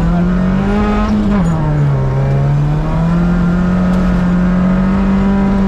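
Rally car engine heard from inside the cabin, pulling hard under acceleration. Its pitch climbs, drops sharply about a second and a half in at an upshift, then rises steadily again.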